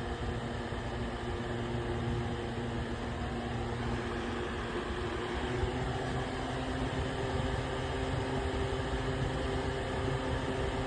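Small Holmes Blizzard Jr two-speed desk fan running steadily on its low setting: an even rush of moving air with a steady motor hum under it.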